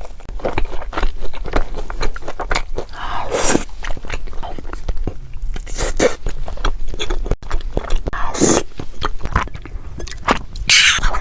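Close-miked eating of a crunchy food: a steady run of small crunches and mouth clicks as it is chewed, with a louder crunching bite every two to three seconds.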